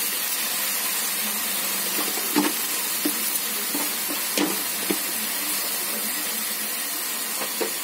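Chicken and spice masala sizzling steadily in hot oil in a kadai, with a few faint clicks now and then; the masala is almost fried, its oil separating.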